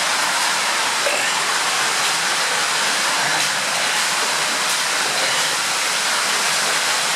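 Underground waterfall in a water tunnel, rushing water making a steady, dense hiss with no breaks.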